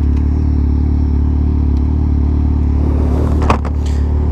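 Yamaha XJ6 inline-four idling steadily through an aftermarket Jeskap exhaust, with a short sharp click about three and a half seconds in.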